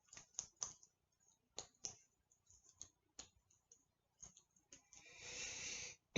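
Faint handwriting sounds: scattered light clicks and taps of a pen, then about a second of scratching near the end.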